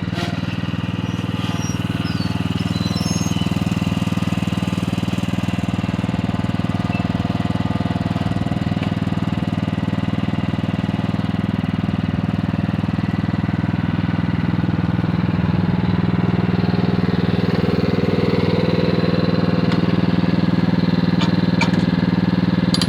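Small engine of a ride-on vehicle running steadily at an even speed, getting a little louder about two-thirds of the way through.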